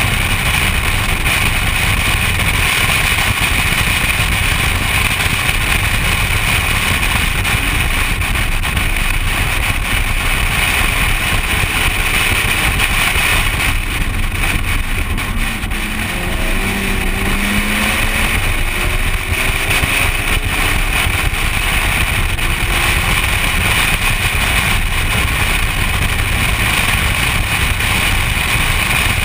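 Engine and wind noise heard from inside a BMW driven hard on a race track, loud and steady, easing briefly about halfway through.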